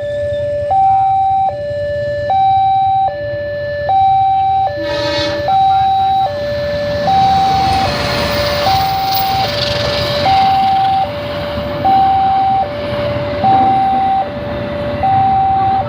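Railway level-crossing warning alarm sounding a steady two-tone electronic alternation, high then low, each tone lasting a little under a second. A short horn blast sounds about five seconds in. The rumble of a passing train swells through the middle and fades toward the end.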